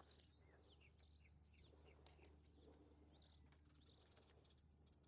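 Near silence, with faint short falling chirps from small birds scattered through it and a few light ticks.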